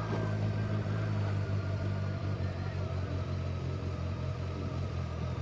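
Motorcycle engine running at a steady, even speed, a low hum with no change in pitch.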